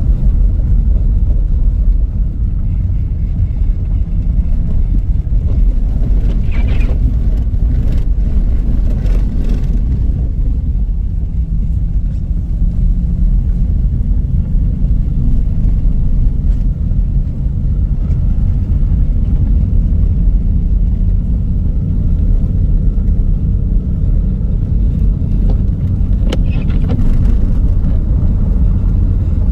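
Steady low rumble of an engine-driven vehicle under way, even in level throughout.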